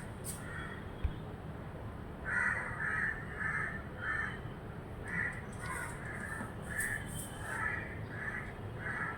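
A crow cawing over and over, about two harsh calls a second, starting about two seconds in.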